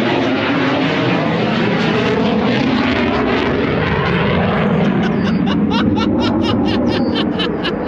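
Loud engine noise of an aircraft flying low overhead, a steady roar that takes on a regular fast pulsing about five seconds in.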